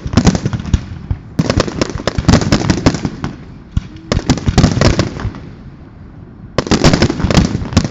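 Fireworks going off in rapid runs of sharp cracks and bangs: four dense volleys, each about a second long, with short lulls between.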